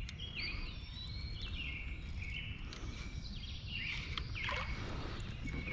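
A songbird singing in repeated warbling, whistled phrases, over a steady low rumble.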